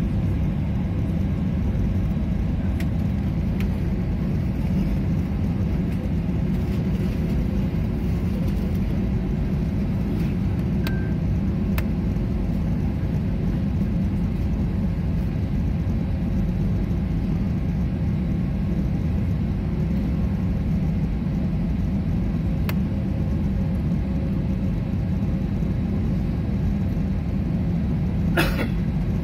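Steady rumble of an airliner's engines and airflow heard inside the passenger cabin, even in level, with a few faint ticks and a brief click near the end.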